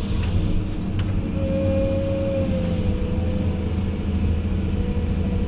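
Diesel engine of a heavy earthmoving machine running steadily under work, heard from inside the cab as a low drone. A steady whine comes in about a second in and fades after a couple of seconds.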